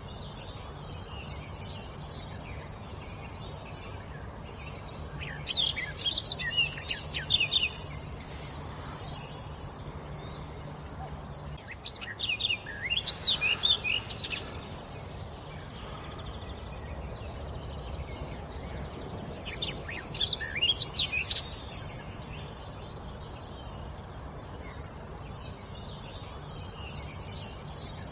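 A songbird singing three short phrases of quick, sweeping high notes, each about two seconds long and spaced roughly six seconds apart, over a steady background hiss.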